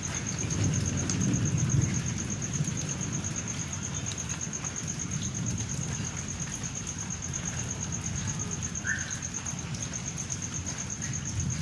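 Steady rain during a thunderstorm, with a low thunder rumble that swells about a second in and fades. A fast, even, high-pitched pulsing runs over it, and a short chirp comes near the end.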